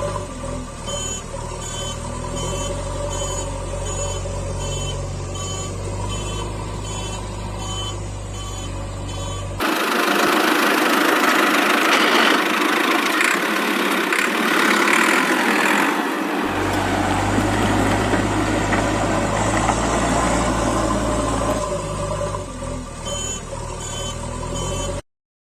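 Steady low vehicle engine hum with a regularly repeating high beep. About ten seconds in, a louder, even hissing noise takes over for six or seven seconds while the hum drops out. Then the hum and beeps return and stop abruptly just before the end.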